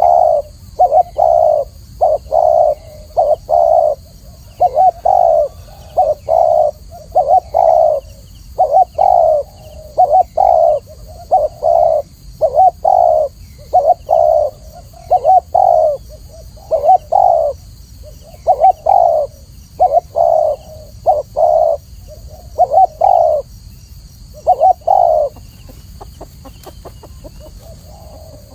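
Spotted dove cooing over and over in quick repeated phrases, loud and close, falling quiet a few seconds before the end.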